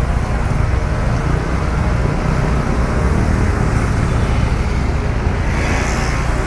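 Road traffic noise: a steady low rumble of cars passing along a busy street.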